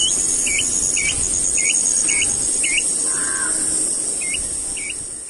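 A bird repeats a short whistled call that dips and rises in pitch, about twice a second, with a pause around the middle. Under it runs a steady, high-pitched insect drone and a low rushing noise.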